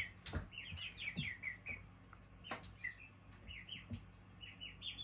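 Young chickens peeping: a scattered run of short, high chirps, each falling in pitch, with a few light knocks among them.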